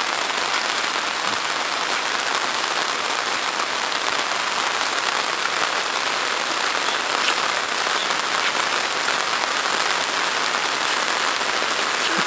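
Heavy rain falling steadily on a tarmac road and roadside foliage, making a dense, even hiss.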